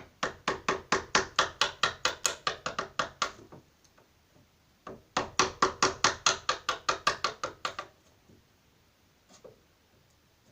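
A wood chisel being struck in quick, even taps, about six a second, cutting out the recess for a lock in a wooden door edge. Two runs of taps with a pause of about a second and a half between them.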